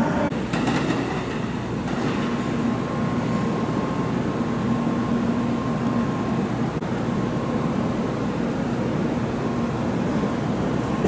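700 series Shinkansen train standing at a station platform, its onboard equipment giving a steady hum with a low drone and a fainter higher whine.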